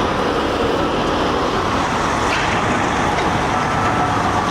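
Steady noise of road traffic and semi-truck engines running, with a faint thin tone coming in about three and a half seconds in.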